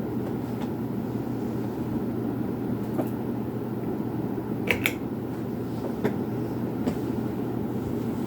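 Westinghouse Swirl ceiling fan running: a steady airy noise with a low motor hum. A few light clicks sound over it, the loudest a quick double click about halfway through.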